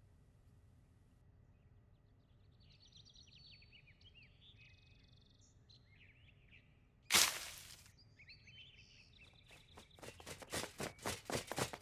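Faint bird chirps, then a sudden loud noise burst about seven seconds in, followed from about ten seconds on by quick, regular taps: cartoon soundtrack effects.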